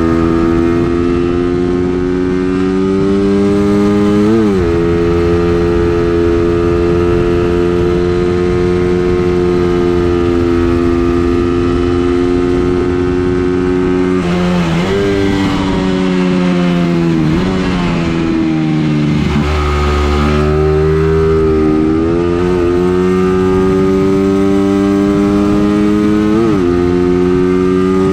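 A vehicle's engine being driven hard around a circuit: its pitch climbs steadily through the gears with sharp upshifts about four seconds in and again near the end, and in the middle it slows with several quick drops and blips in pitch as it shifts down, then pulls away again.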